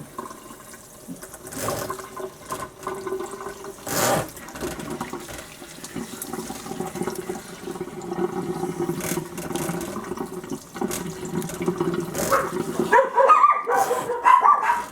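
Tap water running steadily into a bath, with a knock about four seconds in; the water stops near the end and a puppy whines and yips.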